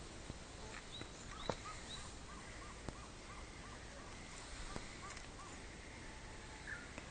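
Wild birds calling: a run of short, repeated arched notes, about three a second, that stops after about five seconds. A few higher chirps come in the first couple of seconds, over a steady background hiss.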